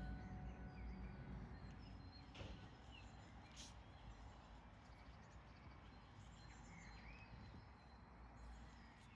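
Faint outdoor ambience with a few small bird chirps, the last notes of background music fading out at the very start.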